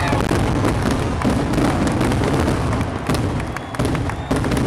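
Fireworks display: aerial shells bursting, with a dense run of sharp pops and crackles. It eases briefly, then a louder burst comes about four seconds in.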